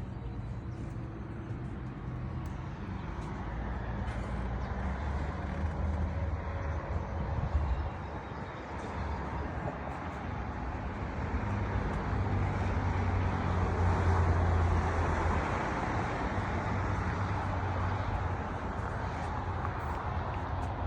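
Mercury 250 hp four-stroke outboard running under way, a steady low drone under rushing water and wind noise that grows louder toward the middle.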